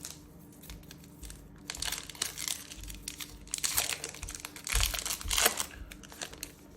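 Trading card booster pack wrapper crinkling as it is handled and opened, a dense run of crackles starting about two seconds in and lasting about four seconds.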